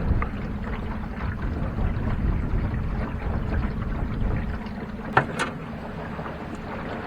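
Small trolling motor on a jon boat humming steadily, under a low wind rumble on the microphone that eases about four and a half seconds in. A single sharp knock about five seconds in.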